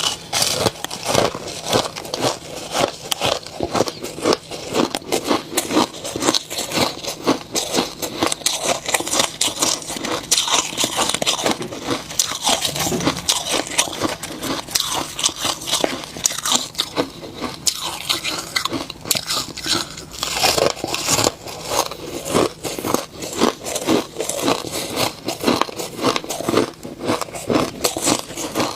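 Close-up crunching of snow ice being bitten and chewed, a rapid, continuous run of crisp crunches.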